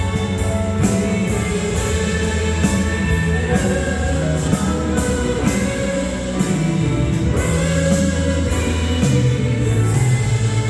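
A worship song played by a band, with singing over instruments and a steady beat.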